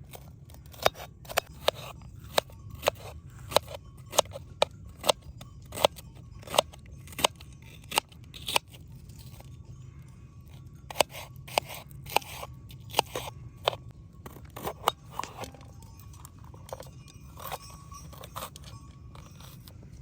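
Knife cutting through food onto a cutting board, in sharp crunching strokes. The strokes come evenly, about one every 0.7 s, for the first nine seconds, then become sparser and irregular.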